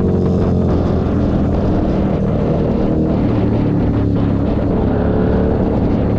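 Keeway SCR 250's V-twin engine running through a Racefit free-flow exhaust, loud and steady with the engine speed wavering a little.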